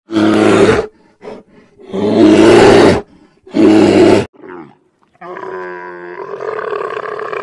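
A big cat roaring: three loud roars in quick succession, then a longer, quieter call from about five seconds in.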